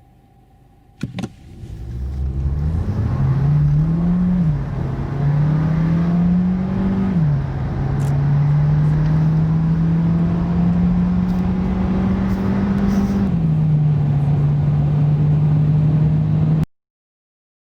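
A 1.4 TSI turbocharged four-cylinder petrol engine accelerating hard from a standstill. Its pitch climbs through the gears and drops at three upshifts, about four, seven and thirteen seconds in. A sharp click comes about a second in, just before it pulls away, and the sound stops abruptly near the end.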